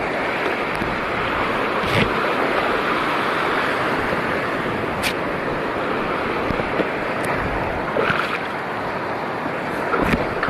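Sea water washing steadily, with a few short sharp clicks about two and five seconds in.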